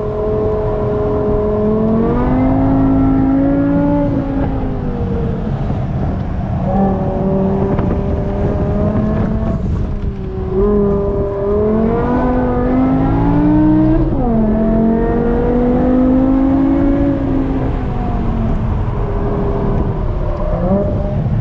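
BMW E60 M5's 5.0-litre V10 running hard through a custom Eisenmann exhaust, its note climbing in pitch under acceleration and falling back again several times as the car speeds up and slows for corners, with one sudden drop in pitch about two-thirds of the way through.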